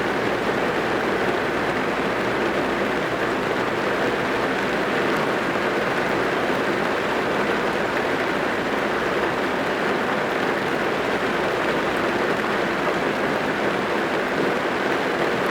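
Steady rain drumming on a car's roof and windows, heard from inside the cabin as an even, unbroken patter.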